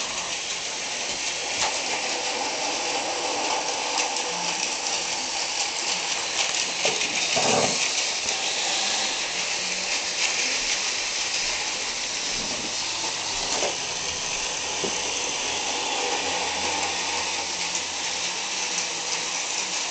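Battery-powered toy trains running on plastic track: a steady whirring rattle of small motors and wheels, with scattered faint clicks.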